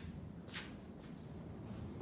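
Faint low background hum with a soft, brief rustle about half a second in and two smaller ones later.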